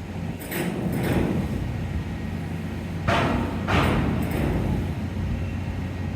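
Steady low hum of a ferry's engines, broken by four short rushes of noise: two close together about half a second and a second in, and two more a little after three seconds in.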